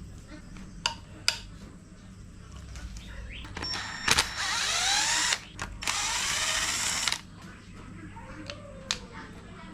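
A power tool runs in two bursts of about a second each, with sweeping changes in pitch as it spins up and down. A few sharp clicks of metal tools come before and after.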